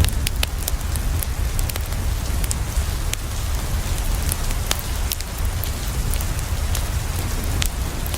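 Steady rain on a window mixed with a crackling wood fire: a continuous hiss over a low rumble, with scattered sharp crackles and ticks throughout.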